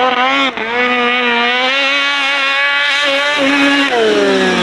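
Race snowmobile's two-stroke engine revving hard at high pitch, with short dips as the throttle comes off, then falling in pitch near the end.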